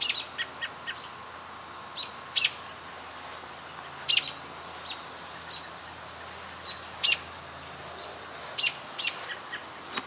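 A bird chirping outdoors: short, high chirps, single or in quick little clusters, every second or two, over a faint steady hum.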